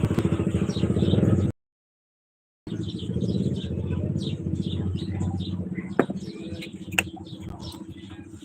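A motor running steadily with a low, even hum, broken once by an edit, while small birds chirp. Two sharp clicks come about a second apart past the middle.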